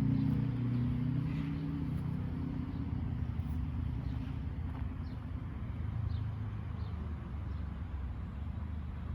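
A motor vehicle's engine hum, loudest at the start and easing off as it goes by, with a few faint bird chirps in the middle.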